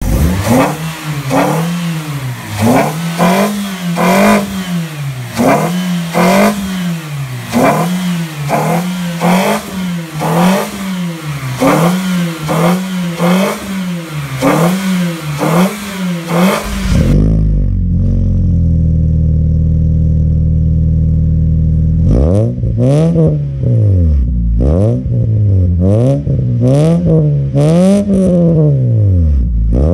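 Toyota Vios four-cylinder engine breathing through an aftermarket full exhaust system and cone-filter air intake, revved in quick repeated blips, the pitch rising and falling about once a second. After about 17 seconds the sound turns duller and holds at a steady high rev for about five seconds. Then the sharp blips return, with the revs reaching around 6,000 rpm.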